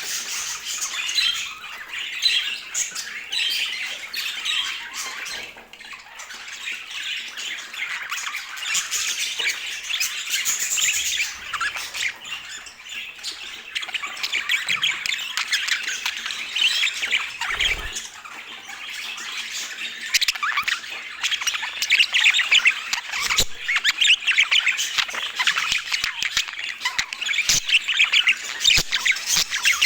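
Budgerigar chatter: a continuous stream of short chirps, warbles and squawks.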